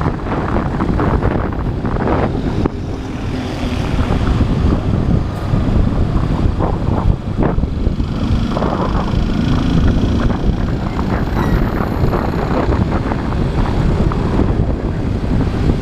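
Motorcycle riding through city traffic, its engine and road noise heard under heavy wind buffeting on the microphone.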